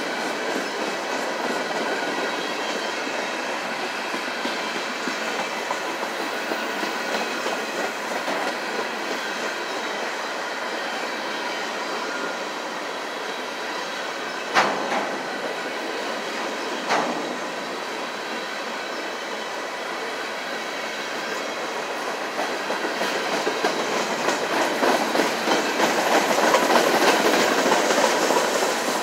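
Slow freight train's open-top hopper cars rolling past, a steady clatter of steel wheels over the rails. Two sharp bangs come about 15 and 17 seconds in, and the clatter grows louder over the last few seconds.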